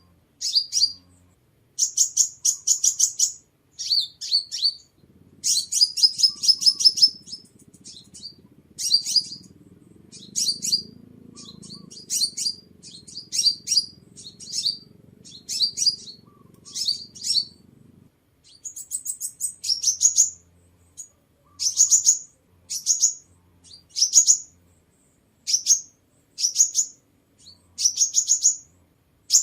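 Sunbird calling: repeated short, high, thin chirps and quick rattling trills in bursts about once a second.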